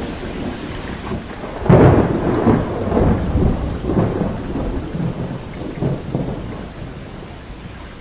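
Steady rainfall with a peal of thunder that breaks suddenly about two seconds in and rolls on in several low swells for about five seconds before fading back into the rain.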